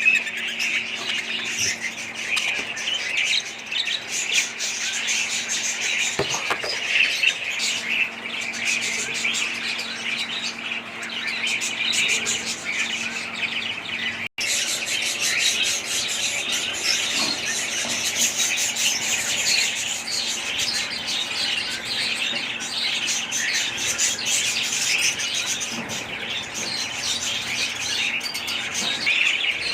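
Many small caged birds chirping and squawking together in a dense, continuous chatter, with a split-second break about halfway through.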